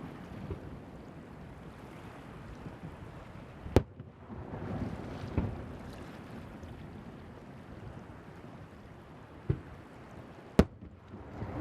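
Fireworks shells bursting over the sea: a sharp bang about four seconds in, two smaller ones after it, and another loud bang near the end, each followed by a short rumble. Under them runs a steady noise of wind and surf.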